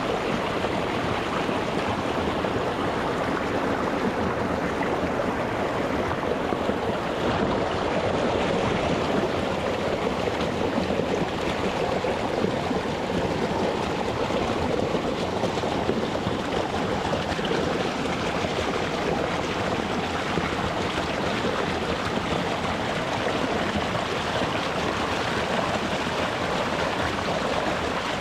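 Shallow rocky mountain stream flowing over stones: a steady rushing and burbling of water, close to the surface.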